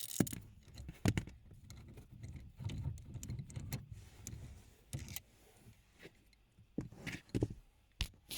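Metal clicks and rattles of a 10 mm socket and ratchet working the lower bolt out of the intermediate steering shaft's joint, with a few sharp clinks spread through and a quieter stretch in the middle.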